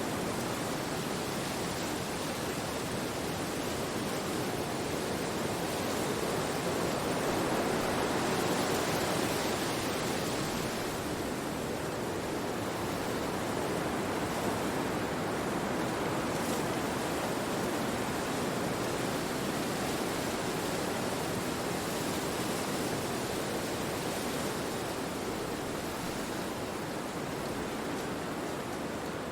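Wind rushing through forest trees, a steady, even rush that swells and slowly eases again.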